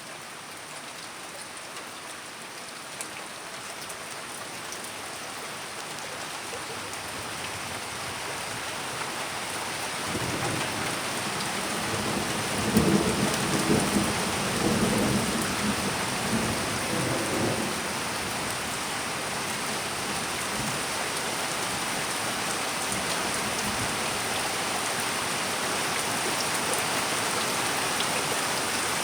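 Steady heavy rain, slowly growing louder, with a long low rumble of thunder that begins about a third of the way in, is loudest in the middle and fades away.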